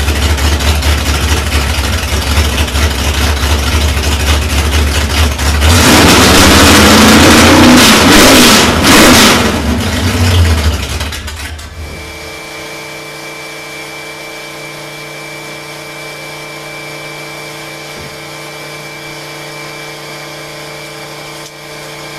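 Car engine idling with a loud, pulsing exhaust rumble. About six seconds in it is revved up and down twice, then it is shut off suddenly about twelve seconds in. After that a steady hum continues.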